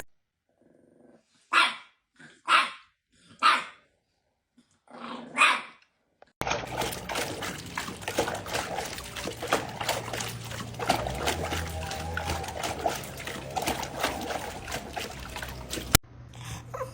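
A dog barking four single times, the barks about a second apart. A little after six seconds in, it gives way to busier noise with clicks and a low hum.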